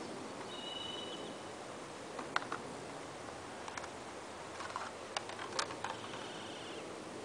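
Outdoor ambience with a bird giving a short high call about half a second in and again near the end, and a scatter of light sharp clicks in between, the loudest a little over two seconds in.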